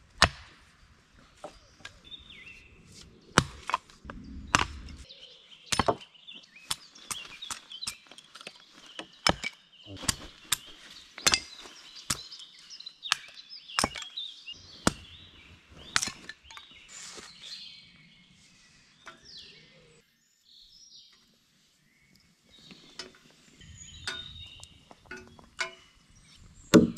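An axe chopping into dry dead wood: a run of sharp, irregular chops, pausing briefly about two-thirds of the way through before more chops near the end.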